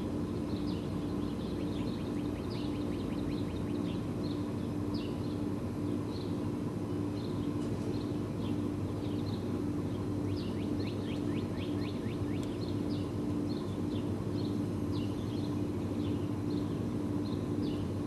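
Small birds chirping and twittering over and over, with a few quick trills, over a steady low hum.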